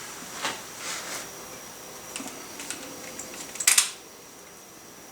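Light metallic clinks and ticks of hand tools and wheel hardware being handled, then a louder brief metallic clatter a little before the four-second mark.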